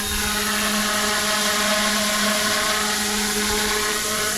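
GooSky Huey UH-1Y Venom scale RC helicopter, built on the GooSky E2/S2, flying in normal mode as it comes in to land: a steady whine from its electric motor and spinning rotors.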